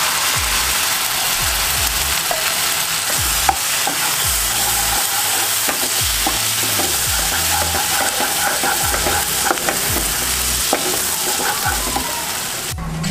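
Ground tomato-cashew masala paste sizzling as it fries in hot oil and butter in a kadhai, stirred with a wooden spatula that scrapes and knocks against the pan at irregular intervals.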